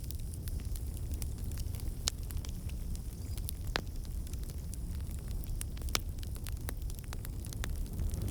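Fire crackling in a fireplace: a steady low rumble of burning with dense small crackles throughout and a few sharper pops, the loudest near the middle and about six seconds in.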